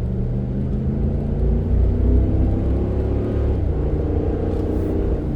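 Car engine and road rumble heard from inside the cabin while driving, a steady low drone whose engine note shifts about three to four seconds in.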